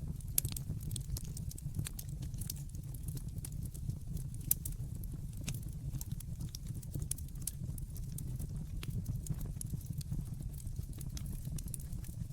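Wood fire burning in a fireplace: a steady low rumble of flames with frequent sharp crackles, and a couple of louder pops about half a second and four and a half seconds in.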